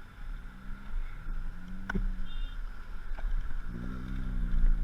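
Motorcycle engine running with a low rumble, its pitch wavering slightly, and a short click about two seconds in.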